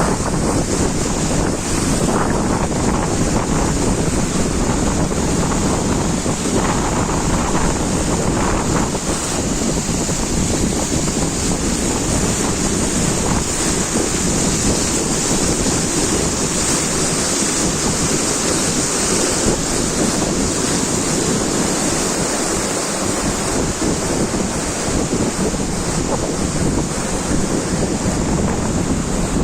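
A loud, steady rushing noise with no distinct events or rhythm.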